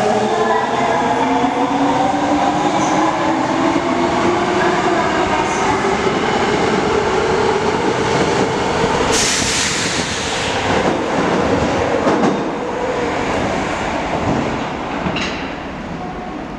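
Osaka Metro 22 series subway train departing: the traction motors' whine climbs in pitch as it accelerates, with wheels clicking over the rails. About nine seconds in there is a loud rushing noise lasting a couple of seconds, and then the train's sound fades as it pulls away.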